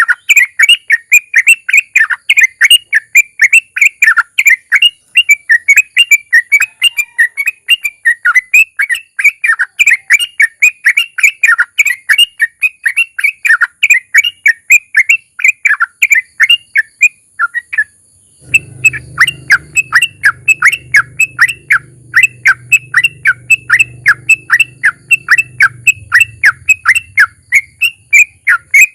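Yellow-vented bulbul (trucukan) singing a long rapid run of short falling chirps, several a second, broken once by a brief pause about two-thirds through. A low hum sits under the song for several seconds after the pause.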